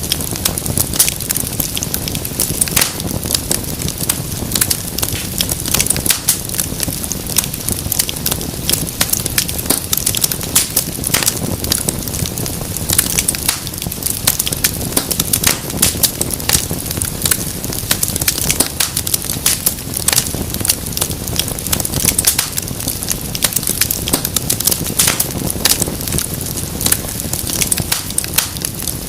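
Wood fire crackling, with dense, irregular sharp pops and snaps over a low, steady rumble of the flames.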